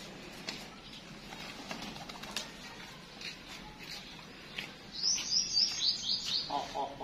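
Birds chirping: a quick run of high, falling chirps about five seconds in, then a lower, fast pulsing call near the end.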